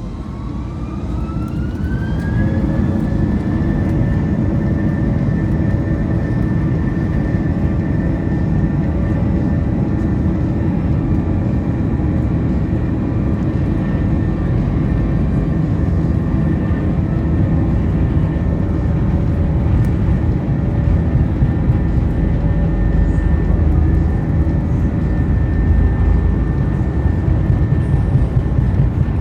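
Airbus A321-200 jet engines spooling up to take-off thrust, heard from inside the cabin. A whine rises in pitch for about two and a half seconds, then holds steady over a deep rumble that grows stronger in the last few seconds.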